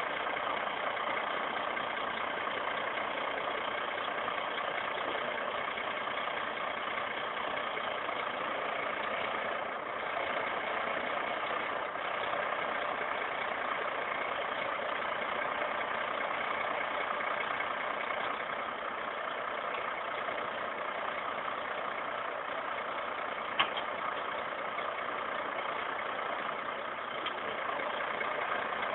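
Tractor diesel engine running steadily at idle, with one sharp click late on.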